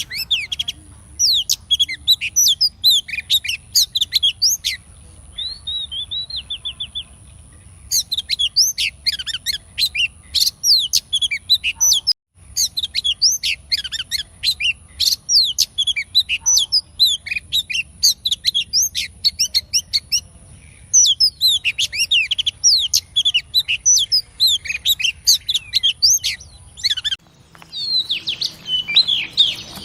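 Female oriental magpie-robin calling in fast runs of short, sliding high chirps and whistles, with brief breaks between runs. A faint steady high whine sits behind much of it.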